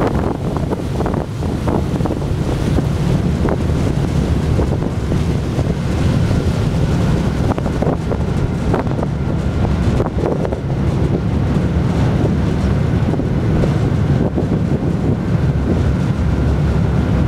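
Wind buffeting the microphone on the deck of a moving ship, over a steady low rumble of the vessel and the water. A faint steady whine joins about six seconds in.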